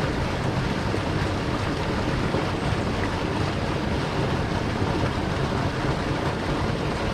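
Creek water rushing, a loud, steady wash with no breaks.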